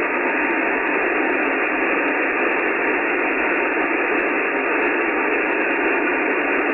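Steady hiss of an Icom IC-9700 receiving 70 cm SSB with no readable signal: band-limited static from the receiver's narrow voice passband.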